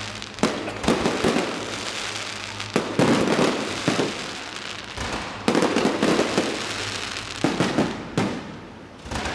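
Fireworks going off in a truck-mounted, electronically fired display: several sharp bangs a second or two apart, each trailing into a long crackle.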